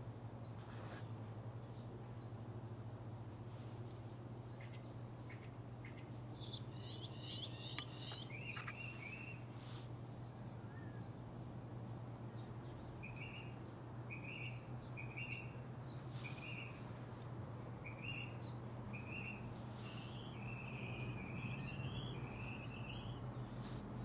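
Backyard songbirds chirping and singing: scattered chirps at first, then a long run of short notes repeated about once a second through the second half, over a steady low hum.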